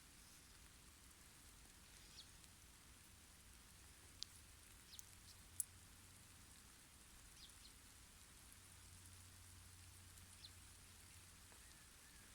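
Near silence: faint outdoor hiss with a few short, high-pitched chirps scattered through it.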